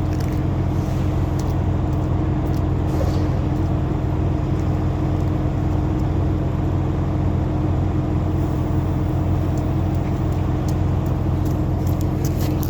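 A vehicle engine idling steadily with a low hum, and a few faint crackles or ticks in the second half.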